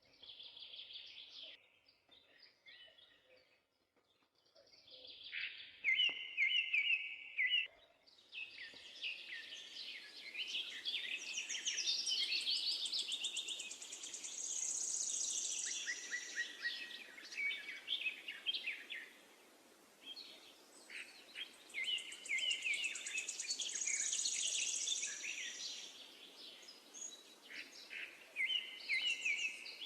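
Several songbirds singing in an overlapping chorus of chirps, trills and high whistled phrases, sparse at first and busier from about eight seconds in. A steady background hiss comes in at the same point.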